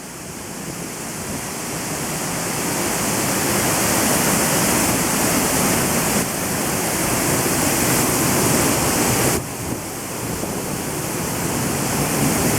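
Middle North Falls, heard from right beneath it: a loud, steady rush of falling water that grows louder over the first few seconds. It drops briefly about nine and a half seconds in, then comes back up.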